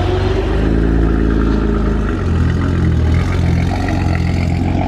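Car engine running loudly, its pitch shifting up and down as it is revved.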